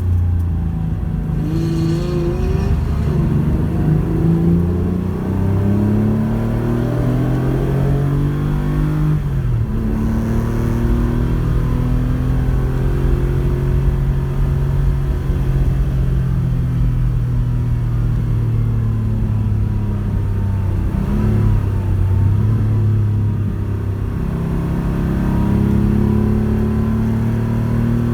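Porsche 911 rally car's flat-six engine running under throttle, its pitch climbing and then dropping sharply about nine seconds in. After that it runs at a steadier pitch with smaller rises and dips.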